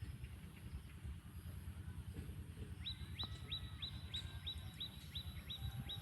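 A bird calls a run of short rising chirps, about three a second, starting about halfway through, over a steady low rumble.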